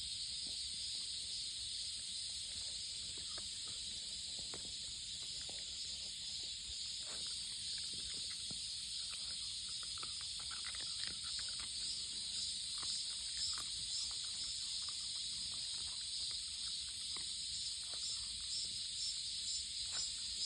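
Steady high-pitched chorus of insects, with scattered soft clicks over it.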